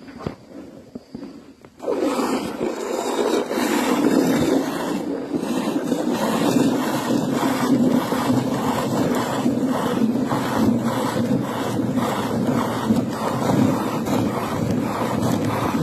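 Milking machine running: a steady motor-like drone with a regular pulsing about twice a second, starting suddenly about two seconds in.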